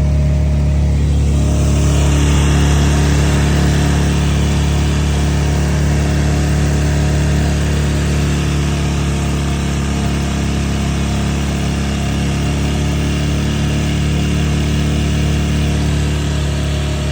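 Hangkai 6.5 hp four-stroke outboard motor running steadily. A rushing hiss joins the engine about two seconds in.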